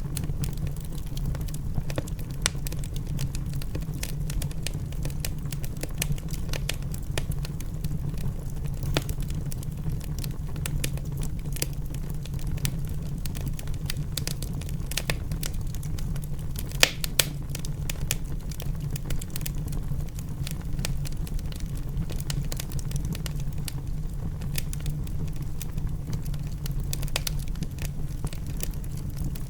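Wood fire crackling in a fireplace: scattered sharp pops and snaps over a steady low rumble, with the loudest pops about 17 seconds in.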